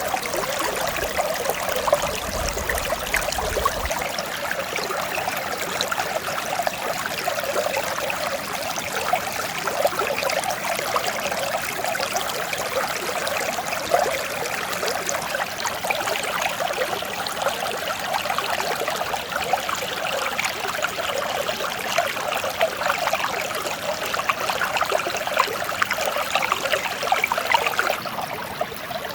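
Mountain stream flowing over rocks: a steady, gentle rush and babble of water.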